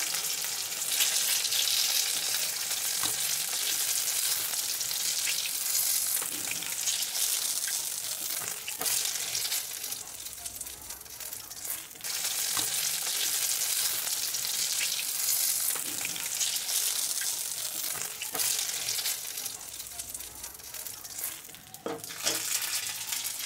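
Eggplant slices sizzling in hot oil in a wok, with a spatula scraping and tapping against the pan as the fried pieces are lifted out.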